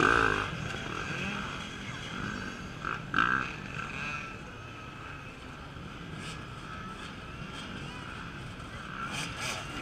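Off-road dirt bike engines revving and running in surges as riders work through the course: a loud burst of throttle at the start and another about three seconds in, with engine noise carrying on in between.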